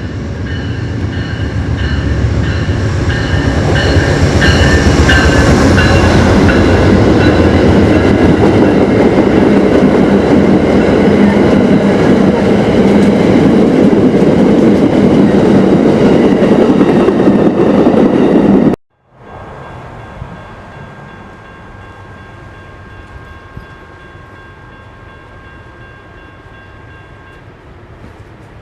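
A train passing close by, its rumble and wheel noise building over the first few seconds and staying loud, with a steady multi-note tone over it early on. About 19 seconds in the sound cuts off abruptly and gives way to a much quieter train sound with a faint steady tone.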